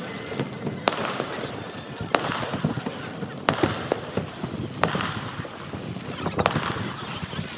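Distant aerial fireworks shells bursting: a run of about five sharp bangs, one every second and a half or so, over a steady background hiss.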